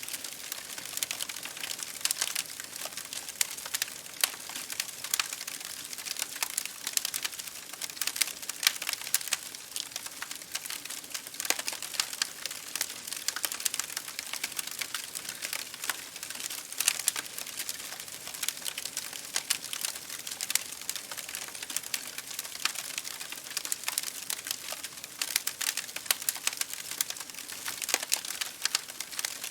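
Wood fire crackling in a fireplace, with dense, irregular sharp pops and snaps, over a steady hiss of rain on window glass.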